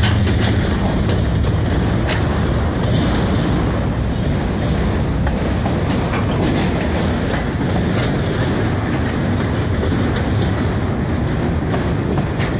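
Freight train cars rolling past close by: a steady rumble of steel wheels on rail, with scattered clicks as the wheels cross rail joints. The locomotive's engine drone dies away right at the start.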